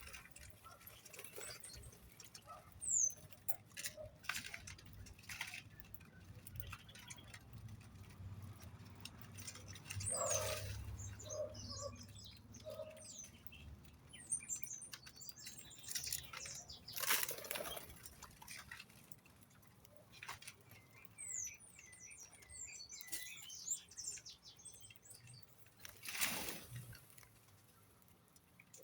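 Small birds chirping in short high notes and brief falling whistles, mixed with fluttering wings and scattered rustling and scratching; a few louder rustles stand out, the loudest about 17 and 26 seconds in.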